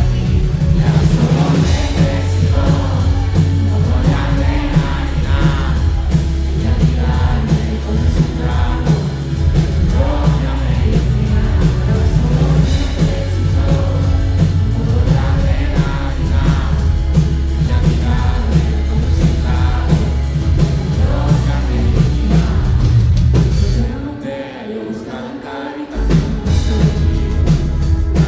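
Live pop-rock band playing loudly with a singer's voice over it, recorded from the audience. About 24 seconds in the bass and drums drop out for around two seconds, then the full band comes back in.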